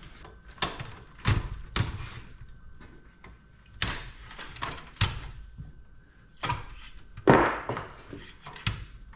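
A series of sharp metal knocks and clunks from a power supply being worked loose and pulled out of a desktop computer's steel case. There are about eight separate hits, the loudest about seven seconds in.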